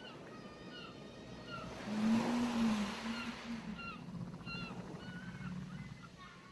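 Ocean waves washing on a shore, one swelling and fading about two seconds in, with seagulls giving short repeated cries throughout. A low, drawn-out moaning tone sounds under the wave as it swells.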